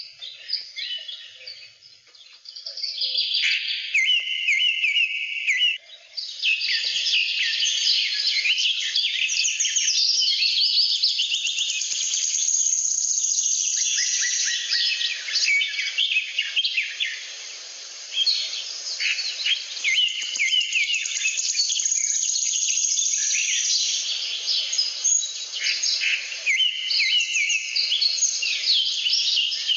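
Many small birds chirping and twittering at once, a dense, continuous chorus of quick high chirps.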